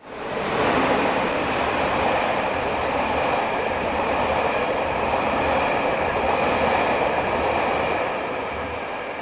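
Train carrying KiHa 283 series diesel railcars passing close by: a steady rumble of wheels on rail with a thin high ringing, starting suddenly and easing off near the end.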